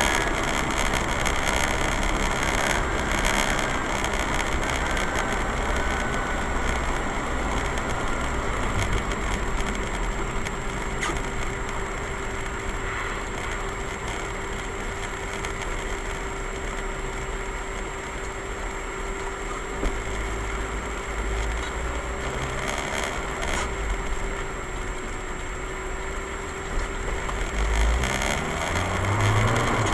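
A car driving: steady engine and road noise, with a brief knock about twenty seconds in and a rising engine note near the end.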